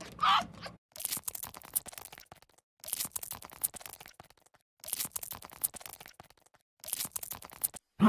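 A red fox kit's high whining call ends just after the start. Then dry crackling and crunching comes in four spells of one to one and a half seconds, with short silent gaps between them.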